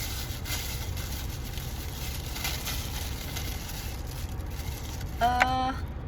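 Small toy blind-box packaging crinkling and rustling in hand over a steady low rumble in a car cabin, with a brief hummed voice sound near the end.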